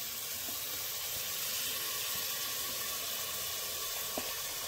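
Freshly added chopped tomatoes sizzling in hot oil and frying masala in an aluminium pressure cooker, a steady hiss.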